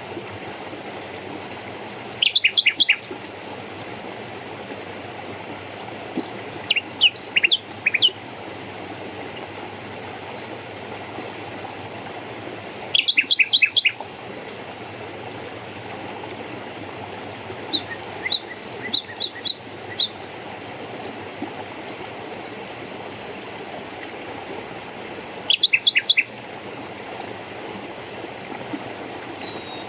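A songbird singing short bursts of quick, sharp high notes about every five or six seconds, some bursts led by a soft falling twitter, over the steady rush of flowing water.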